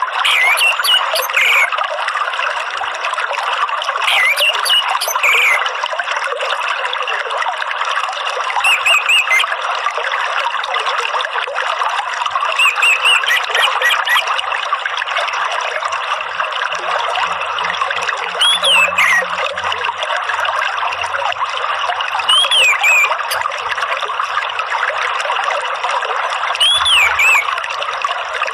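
A steady trickle of running water, with an orange-headed thrush's short, swooping whistled phrases coming in about seven times, every four seconds or so.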